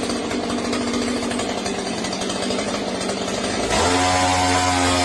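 A small engine running with a rapid pulsing rattle. About three and a half seconds in, a louder steady droning tone cuts in and holds to the end.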